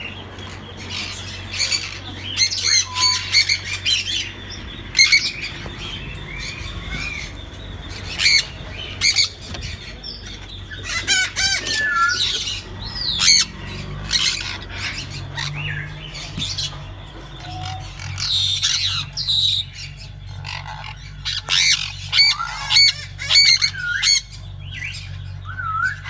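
Sun conures squawking in many short, harsh, high screeches: agitated parents while their nest box is opened. A low steady hum runs underneath.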